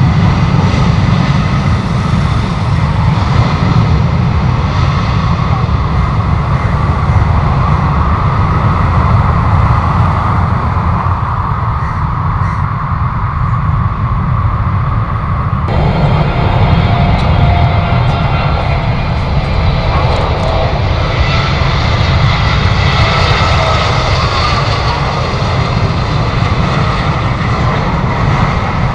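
Jet airliner engines running loud and steady, with a heavy low rumble and a high whine. The sound changes abruptly about halfway through, the upper whine and hiss suddenly growing stronger.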